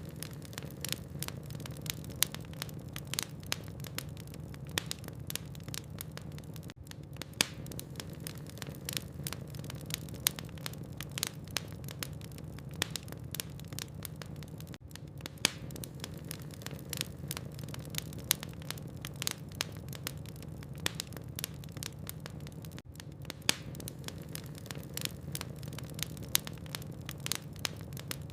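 Wood logs burning in a fireplace: a constant low rumble of the flames with many irregular sharp crackles and pops.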